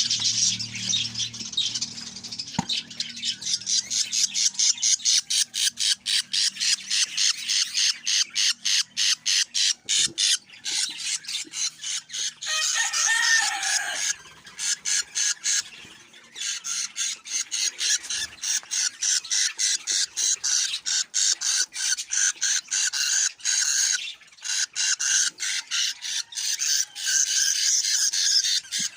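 Budgerigar chicks chirping in a fast, steady run of short high-pitched calls, about three a second, pausing briefly twice. A lower, wavering call joins in for about a second around the middle.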